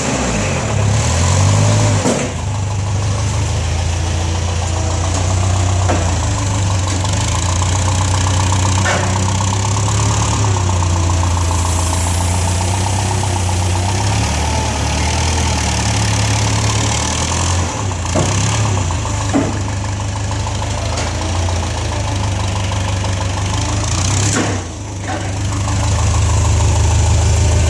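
Propane forklift engine running, its speed rising and falling a few times as the truck works, on an engine with an exhaust leak.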